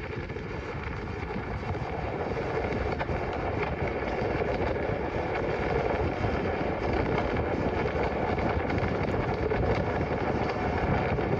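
Motorcycle riding at road speed, engine and wind rush on the microphone mixed into a steady roar, growing louder over the first few seconds.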